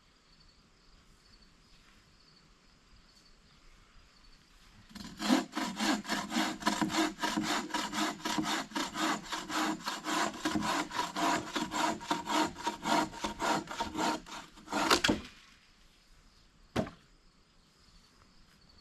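Hand saw cutting wood in quick, even back-and-forth strokes, about four a second, starting about five seconds in and stopping after about ten seconds. A single sharp knock follows shortly after.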